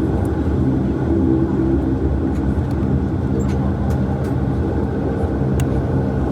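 The Bombardier Q400's Pratt & Whitney PW150A turboprop engines and propellers are running steadily before takeoff, heard from inside the cabin as a constant low drone.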